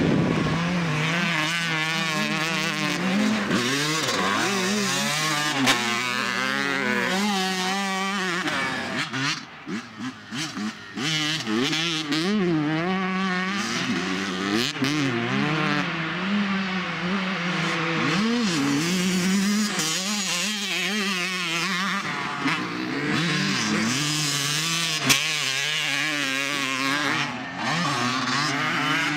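Dirt bike engine revving hard, its pitch rising and falling as the rider works the throttle and shifts. Around 9 to 11 seconds in, it drops away and stutters briefly, then picks back up.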